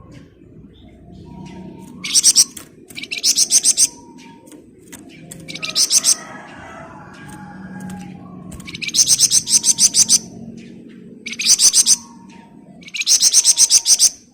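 A flamboyan songbird singing dense, rapid rattling trills (ngebren). There are six bursts of quick, evenly repeated high notes, each lasting up to about a second and a half, with a softer warble between them.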